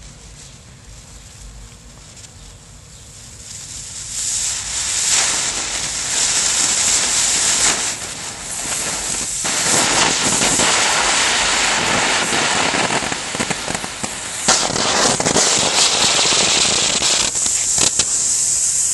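Two smoke bombs catching from a burning fuse and hissing steadily, the hiss building up in steps from about four seconds in as they take light.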